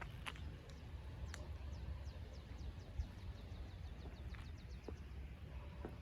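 A bird singing a quick trill of short, high, downward-slurred notes in the middle, over a steady low rumble and a few faint clicks.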